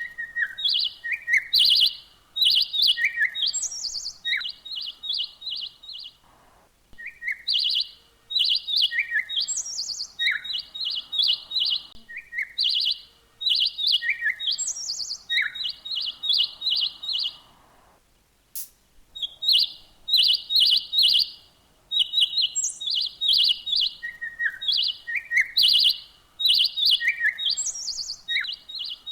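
Songbird chirping in quick runs of short, high notes mixed with brief slurred whistles, in phrases a few seconds long with short pauses between them.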